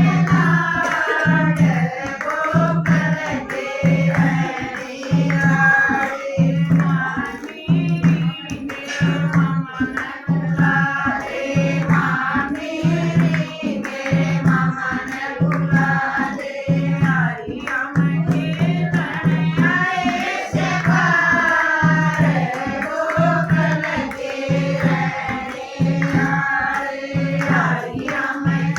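A Haryanvi devotional bhajan to Krishna: sung voice over a steady, even drum beat of about two strokes a second.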